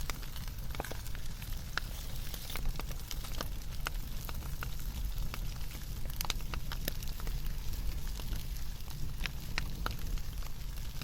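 Wood fire burning in a campfire stand, crackling with irregular sharp pops over a steady low rumble.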